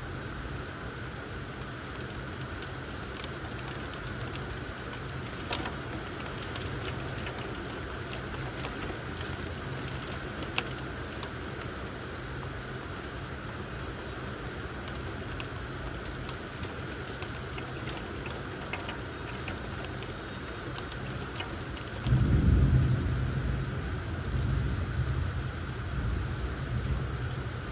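Steady rain falling, with scattered drip clicks. About 22 seconds in, a loud low rumble of thunder breaks in and rolls on in waves.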